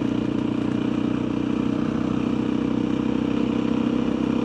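Motorcycle engine running at a steady pace while riding, its note holding even with no change in revs.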